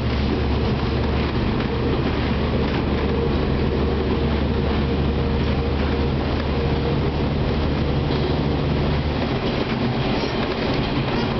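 Train running at speed, heard from inside the carriage: a steady rumble of wheels on rail with a low motor hum. The lowest part of the hum drops away about nine seconds in.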